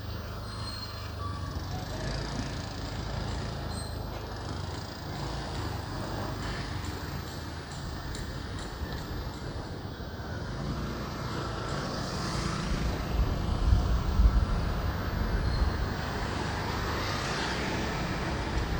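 Road traffic and motorbike engine noise heard from a moving motorbike on city streets, a steady rumble that grows louder about two-thirds of the way through.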